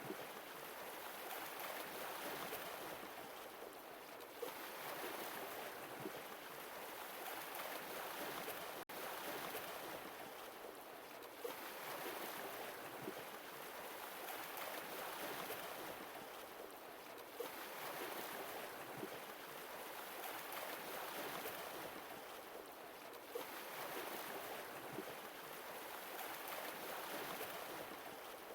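Sea waves washing ashore and drawing back, swelling and fading every five to six seconds, with small splashes and ticks of water through the wash. A split-second gap breaks the sound about nine seconds in.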